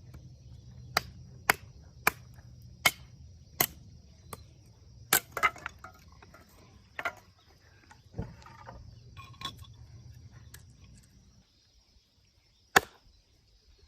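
Splitting firewood: a series of sharp, hard knocks of a tool striking logs, coming quickly at first and then more sparsely, with the loudest blow near the end.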